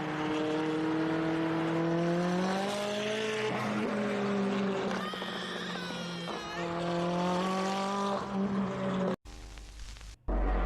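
Sports car engine accelerating hard, its pitch climbing through the gears with an upshift about every two to three seconds. The sound cuts off suddenly near the end.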